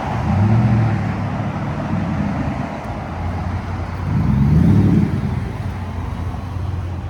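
2023 Ford F-150's 5.0 V8 running through an exhaust with muffler and resonator removed, swelling louder twice: just under a second in and again about four to five seconds in.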